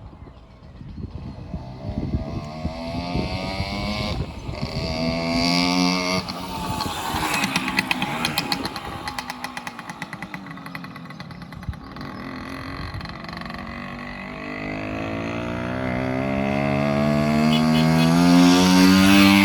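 1968 Suzuki Sportsman M15-2's 50cc two-stroke single-cylinder engine being ridden and revved, its pitch climbing again and again as it pulls through the gears. It grows steadily louder in the last few seconds, coming closer.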